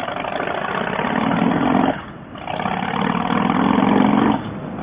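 Harley-Davidson Softail Fat Boy V-twin engine pulling under throttle, backing off briefly about two seconds in as for a gear change, then pulling again and easing off near the end.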